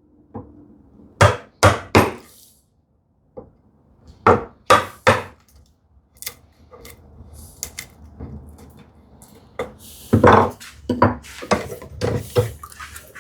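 Chisel chopping a housing dado across wood: sharp blows on the chisel come in two quick groups of three, then quieter scraping and small taps as waste is pared, then more blows near the end.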